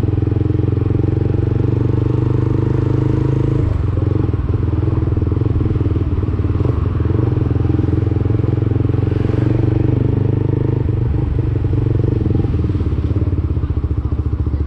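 Lexmoto Assault 125's single-cylinder four-stroke engine running through a Black Widow aftermarket exhaust, a steady note with a brief dip about four seconds in.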